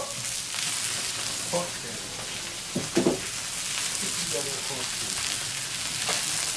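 Steady sizzling of oiled flatbread dough and bacon-wrapped rolls frying on a steel fire plate set around a wood fire.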